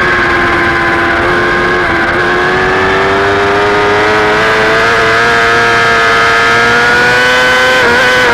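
Superbike engine at high revs under load, heard on board, its pitch dipping slightly about two seconds in and then climbing slowly as the bike accelerates, with a brief flicker in pitch near the end.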